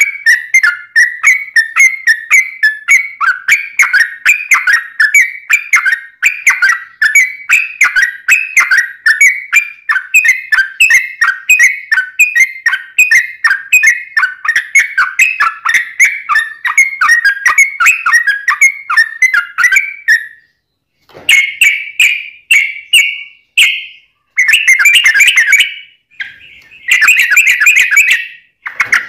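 Yellow-vented bulbul (cucak trucuk) singing a long, unbroken run of quick bubbling notes for about twenty seconds, then pausing and giving several shorter phrases.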